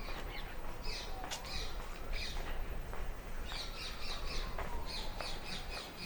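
Birds chirping: short high notes, bunched into two quick runs of about five chirps a second in the second half.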